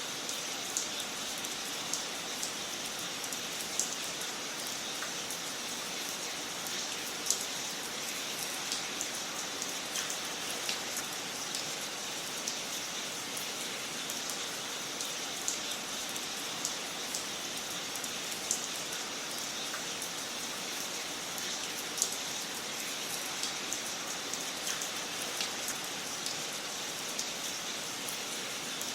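Wood fire in a fireplace crackling: a steady soft hiss with irregular sharp pops and snaps, a few of them louder, scattered a couple of times a second.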